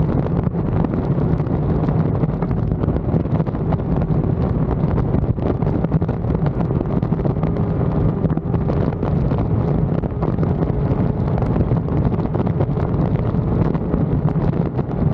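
Wind rushing over the microphone of a moving motorcycle, with the engine's steady low drone underneath.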